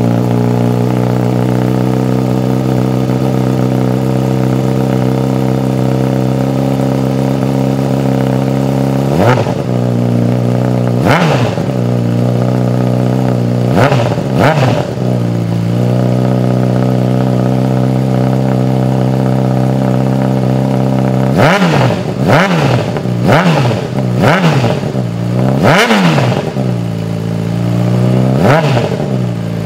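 Honda CBR600RR inline-four engine through an MGP Growler aftermarket exhaust, idling steadily. About nine seconds in it is blipped in a few short revs, then settles back to idle. Over the last eight seconds it is revved repeatedly in quick succession.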